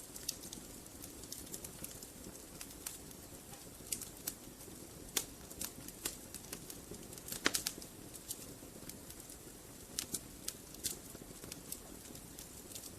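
Wood fire crackling in a fireplace: irregular sharp pops and snaps over a steady low hiss of burning, with one louder pop a little past halfway.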